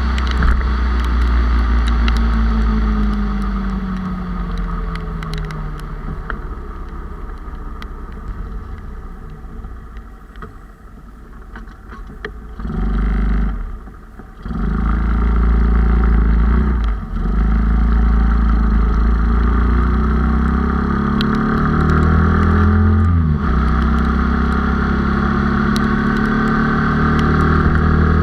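Riding sound of a bored-out 97cc Honda Cub's single-cylinder four-stroke engine, heard from on the bike. The engine note falls and fades over the first several seconds, then picks up again. It is broken by brief cuts about halfway through and a pitch change later before running on steadily.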